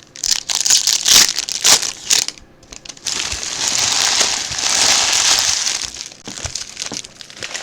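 Plastic wrapping on a trading-card box or pack crinkling and crumpling as it is torn off: short crackly bursts, then a denser, steady rustle from about three seconds in to about six.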